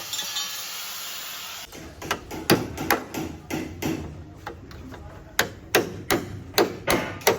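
Hammer striking car body sheet metal, beating out dents in a Suzuki Alto's panels. After a quieter first two seconds come irregular, ringing blows, about two to three a second.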